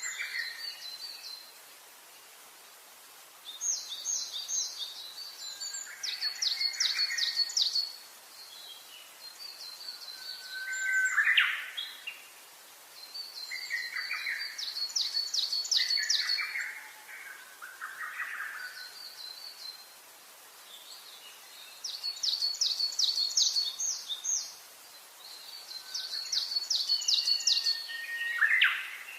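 Several birds singing: bursts of fast, high trills every few seconds, answered by lower, rising and falling whistled phrases, over a faint steady hiss.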